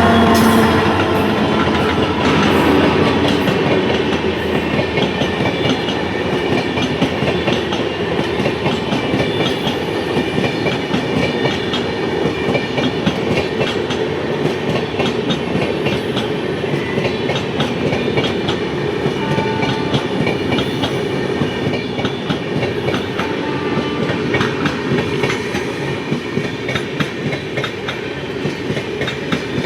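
A train rolling past, its wheels clattering steadily over the rail joints, slowly fading toward the end.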